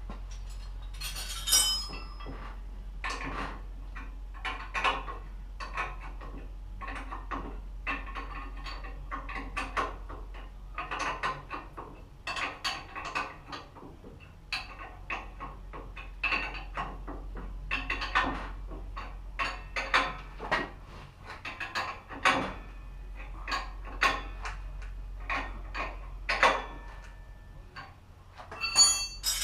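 Metal parts and hand tools clinking and clattering in irregular knocks, over a steady low hum.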